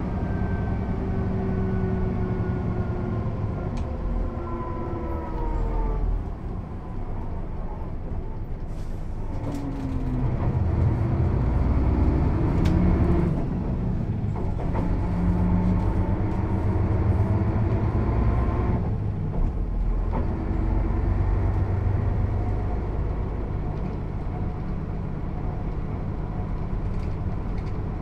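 Mercedes-Benz O 407 bus's six-cylinder diesel engine heard from inside the bus: its pitch falls for the first several seconds as the bus slows, then climbs again as it pulls away, with brief breaks about two-thirds and three-quarters of the way through where gears are changed on the manual gearbox.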